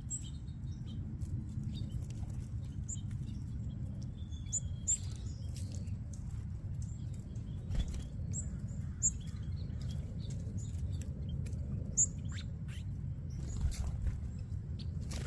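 Small birds at a feeder chirping in short scattered high notes, with a few quick sharp flutters. A steady low rumble lies underneath.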